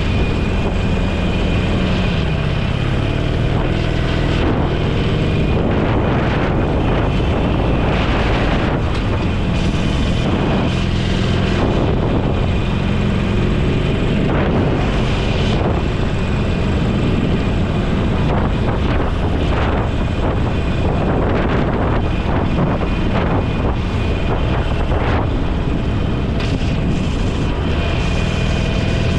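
Motorcycle engine running while riding at speed, with heavy wind noise on the microphone; the engine note rises near the end.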